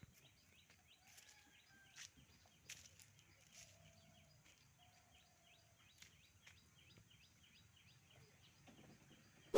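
Near silence: faint outdoor ambience with a soft, evenly repeating chirp, about three a second, and a few faint clicks.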